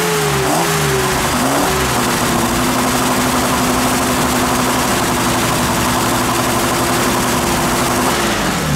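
BMW M30B35 inline-six on individual throttle bodies idling, its pitch wavering for the first couple of seconds and then holding steady. The throttle bodies have just been synchronized, and the idle now sounds even to the owner.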